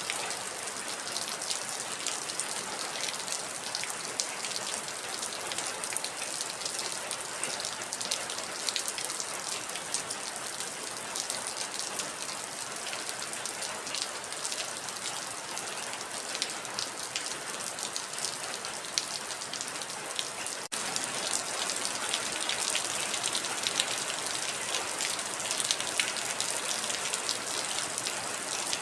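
Heavy rain falling steadily: a dense hiss with countless individual drops ticking through it. About 21 seconds in, the sound cuts out for an instant and comes back slightly louder.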